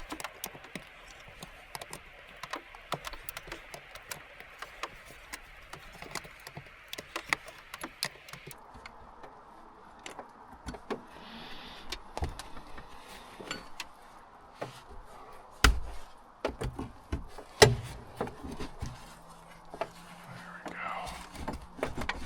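Scattered clicks, clinks and clanks of hand tools and engine parts being handled while working under a pickup's hood, with two louder knocks in the second half. A steady hiss underneath stops a little over a third of the way through.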